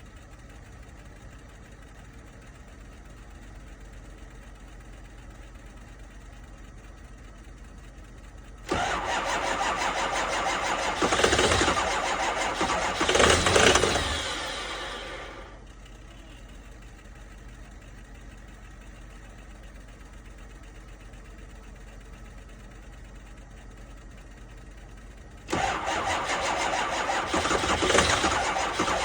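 2005 Ford 6.0 Powerstroke V8 turbo diesel being cranked on the starter in 15-degree cold without catching, a cold no-start. A first crank of about seven seconds swells twice as it tries to fire, then dies away. After a pause of about ten seconds a second crank begins near the end.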